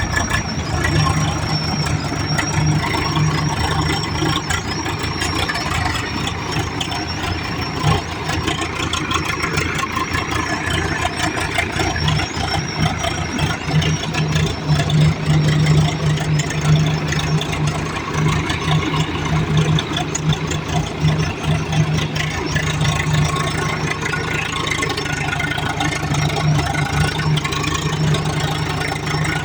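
Swaraj tractor's diesel engine running steadily at a low, even speed, with a constant low hum and a mechanical rattle.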